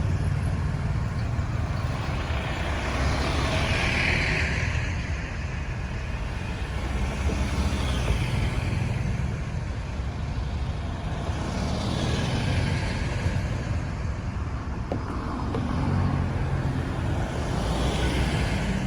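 Busy road traffic: a steady low rumble of engines, with several vehicles passing, each a swell of engine and tyre noise.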